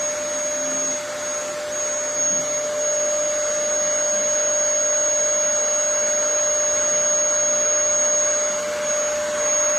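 Vacuum cleaner running steadily, its motor giving a constant high whine over a rushing air noise.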